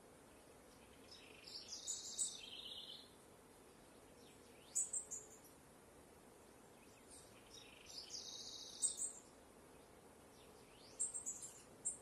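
Birdsong: four separate high-pitched song phrases, the longest lasting about a second and a half, over a faint steady outdoor background.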